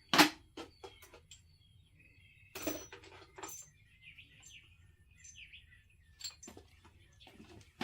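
Loose metal washers and bolts clinking and rattling as someone rummages through them, with a sharp clink about a quarter second in the loudest; birds chirp faintly between the clinks.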